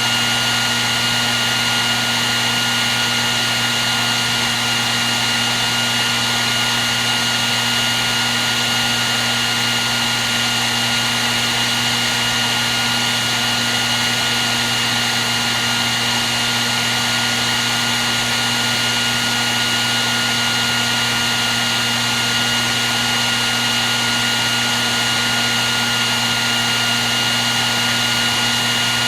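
Hair dryer running steadily: a rush of blown air with a constant high motor whine and a low hum, unchanging throughout.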